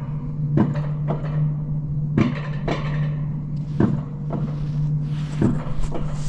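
Alpine coaster cart being hauled up its lift section: a steady low mechanical hum with sharp clacks every half second to a second or so.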